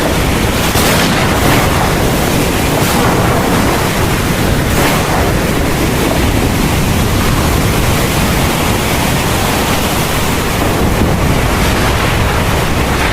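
Heavy rain falling in a dense, steady hiss with a low rumble underneath, swelling briefly a few times in the first five seconds.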